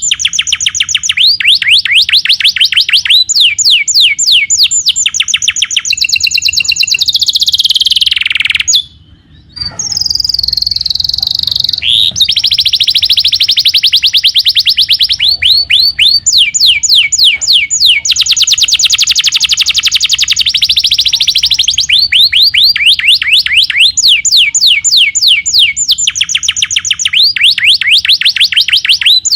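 Canary singing in long runs of rapid trills, quick repeated high notes in fast rolls that change pattern every few seconds, with a brief break about nine seconds in.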